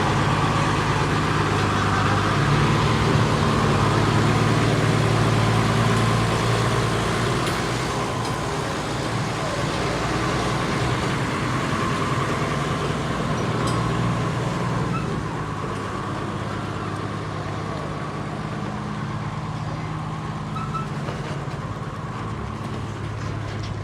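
Heavy truck's engine running steadily as the truck edges through a tight gap in jammed traffic, with surrounding road noise. Loudest for the first several seconds, then easing a little.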